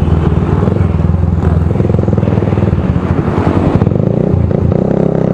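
Motorcycle engine running through a loud open exhaust pipe with no silencer, its note shifting about midway.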